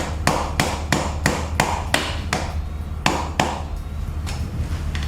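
Metal-on-metal hammer blows, about three a second and weaker near the end, driving off an old front wheel-bearing race that has been ground through and cracked and is stuck on the hub, just starting to move.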